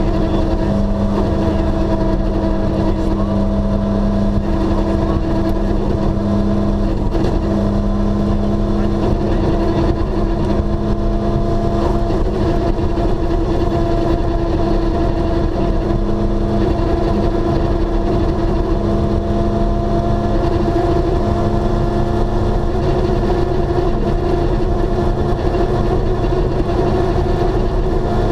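Rally car engine heard from inside the cabin, running at steady revs with a constant engine note over low road rumble.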